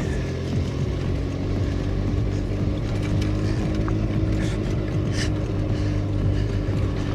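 Golf cart running at a steady speed during a ride, a low even drone.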